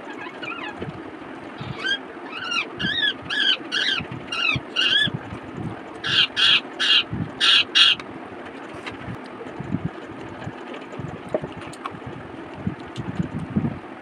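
A bird calling in short, quick repeated calls, about two to three a second, in two runs: one from about two to five seconds in, then a louder one from about six to eight seconds in. Underneath are soft close-up eating sounds: chewing and fingers mixing rice on a steel plate.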